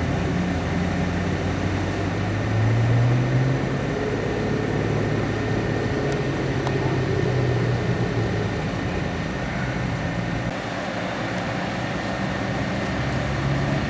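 A large engine running steadily, its pitch rising briefly about two to three seconds in and then settling back.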